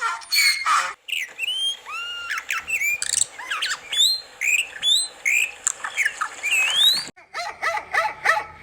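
Birds calling: many short chirps and squawks that sweep up and down in pitch. About seven seconds in, the calls stop suddenly and a fast run of short, quickly repeated calls follows.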